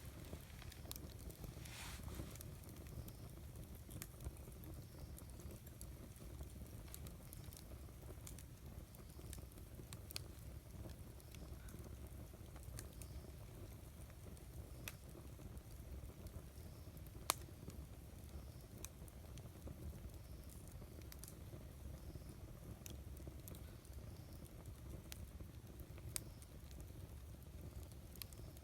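Wood campfire burning: a low steady rumble with scattered sharp crackles and pops from the burning wood, the loudest pop about two-thirds of the way through.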